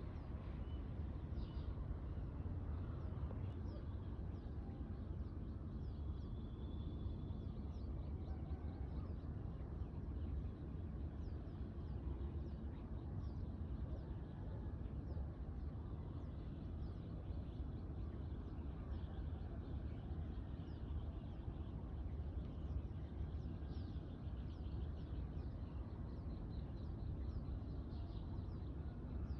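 Birds chirping and calling, faint short repeated notes scattered throughout, with a brief held whistle about six seconds in, over a steady low rumble.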